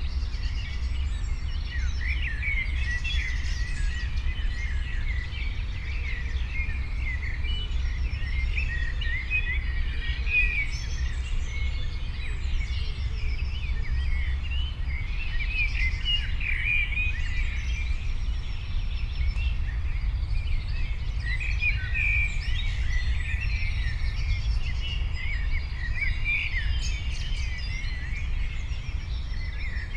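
A chorus of small songbirds chirping and trilling continuously, many calls overlapping, over a steady low rumble.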